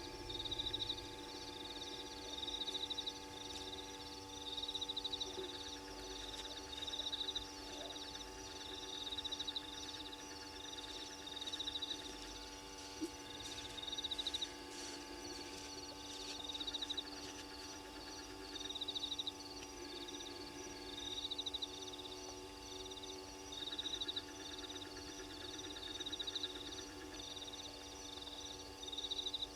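Night-time animal chorus at a waterhole: a high, rapidly pulsed trill lasting about a second repeats roughly every two seconds over a steady, continuous drone of calling.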